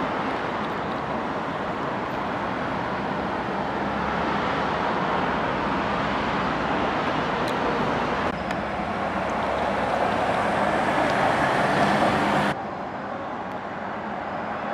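Steady road traffic noise from passing vehicles. Near the end the sound changes abruptly to a duller, quieter noise.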